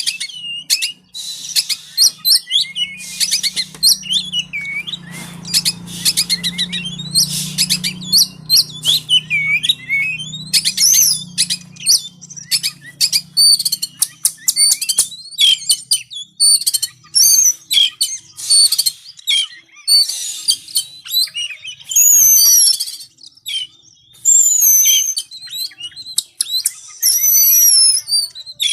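Oriental magpie-robin (kacer) in loud, fired-up song: a rapid, unbroken run of varied chirps, trills and rising and falling whistles. A faint low hum sits under the song for about the first half.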